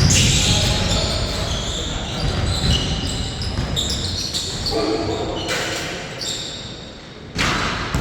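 Basketball game sounds on an indoor court: the ball bouncing and sneakers squeaking on the floor, with a sudden louder burst of sound near the end.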